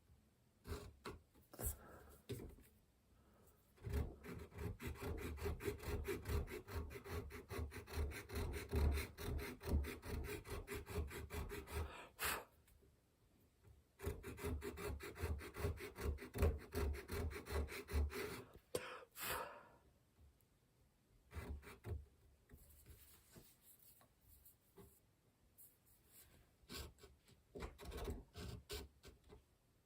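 Quick back-and-forth rasping strokes of a hand tool being worked by hand, in two long runs of several seconds each, with shorter scrapes and clicks in between.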